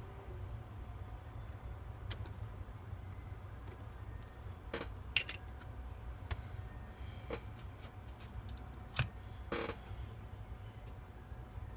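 Scattered small clicks and taps from tools and plastic parts being handled while a smartphone is taken apart, about eight spread over the stretch, the sharpest just past the middle, over a low steady hum.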